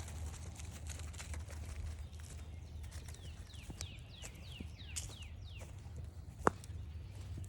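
Footsteps on a forest trail over a steady low rumble, with a bird singing a quick run of about ten falling notes in the middle. A single sharp snap or knock about six and a half seconds in.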